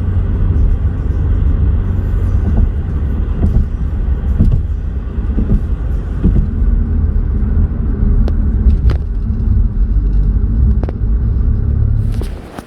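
Steady low rumble of a moving vehicle, with a few sharp clicks; it cuts off suddenly near the end.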